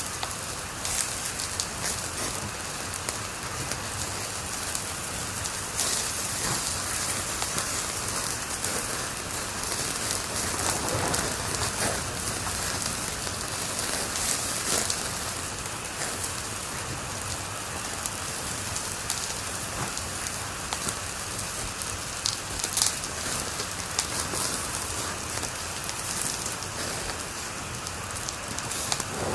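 Wood fire crackling steadily in a fireplace, a dense run of small crackles with a sharper pop late on.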